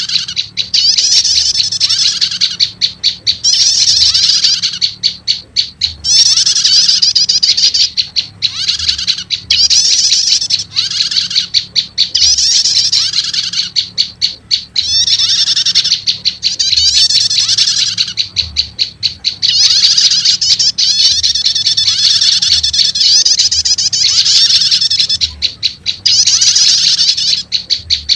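Olive-backed tailorbird (prenjak lumut) calls played as a bird-trapping lure recording. They are loud, rapid, high chattering trills in repeated bursts of a second or two, with brief gaps and lower short arched notes between them.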